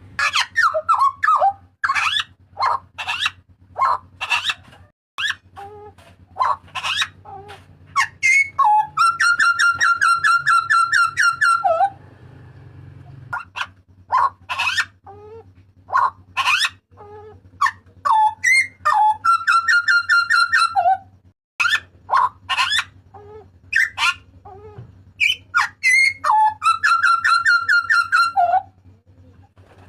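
Hooded butcherbird calling: loud, sharp separate notes, broken three times by a fast rattling trill that lasts two to three seconds.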